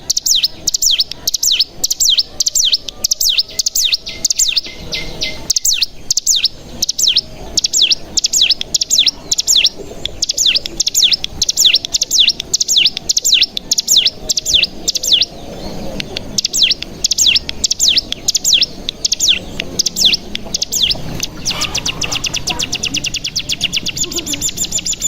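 Ciblek gunung (hill prinia) singing a long run of sharp falling chirps, several a second, that crowds into a fast chattering trill (the 'bren') near the end.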